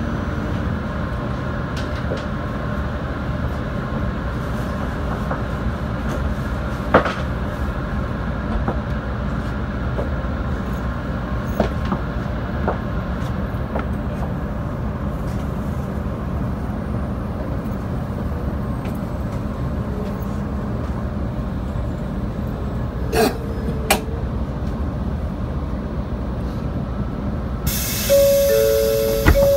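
Cabin noise of an N700 series shinkansen rolling into a station: a steady low rumble with a few sharp clicks and knocks from the running gear. Near the end a sudden hiss starts, with two short held tones.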